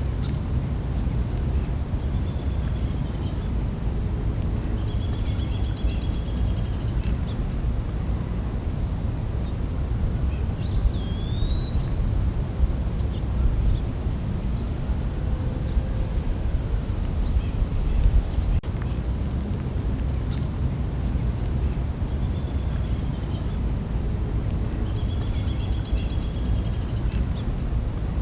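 Night insect chorus: crickets keeping up a steady high-pitched drone with runs of evenly spaced chirps, a few short trilled calls and one rising-then-falling call, all over a steady low rumble.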